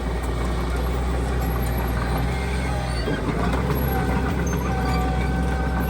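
Heavy diesel engine of earthmoving machinery running with a steady low rumble; a thin high whine joins about halfway through.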